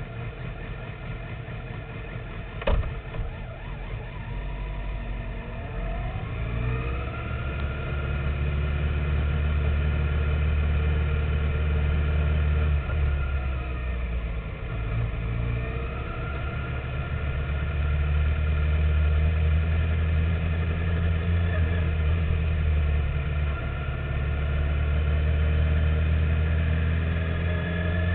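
2009 Kawasaki ZX-6R inline-four sport-bike engine, heard onboard. It runs fairly quietly with a sharp click a little under 3 s in, then revs up through the gears from about 4 s. Its pitch rises in repeated sweeps, dips briefly around 13 and 15 s, and holds loud and high-revving through the rest.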